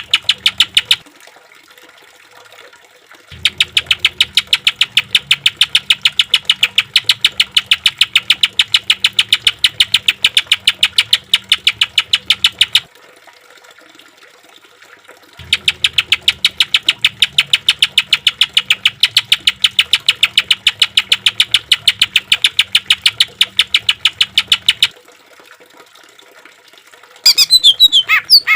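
A green leafbird (cucak ijo) giving long bouts of rapid, evenly spaced harsh notes, its 'tembakan' shot-like rattle. Each bout lasts several seconds and is followed by a short pause. Near the end a more varied song phrase with sweeping pitch begins.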